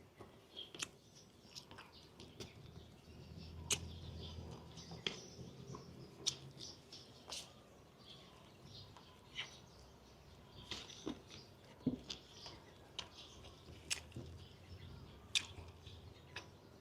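Faint mouth smacks and sharp clicks of someone chewing food close to the microphone, coming irregularly about once a second.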